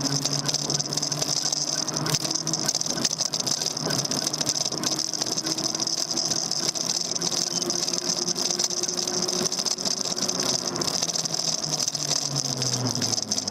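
Daymak Max e-bike riding along, heard from the handlebar: a steady motor hum that slowly rises in pitch and falls away near the end, over constant hiss and a light rattle.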